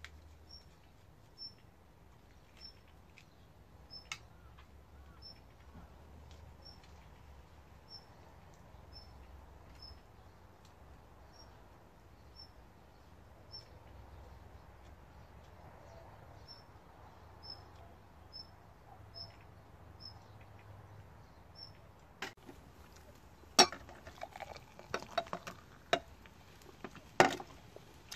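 A short, high chirp repeats about once a second over a faint low hum. In the last six seconds come sharp clinks and knocks, and two of them are much louder than everything else.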